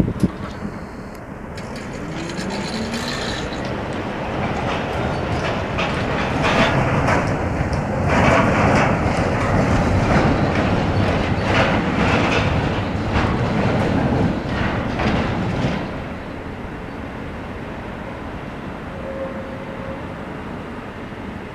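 A Konstal tram passing, its steel wheels clattering over rail joints: the rumble builds over the first seconds, is loudest with a run of clicks from about 6 to 16 seconds in, then drops away suddenly.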